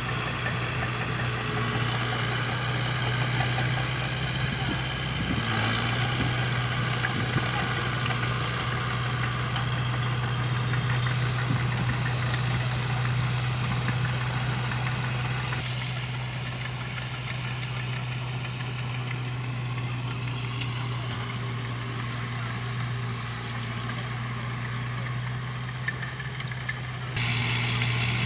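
Heavy earthmoving machine's diesel engine running steadily with a constant low hum. The sound changes abruptly about 5, 16 and 27 seconds in.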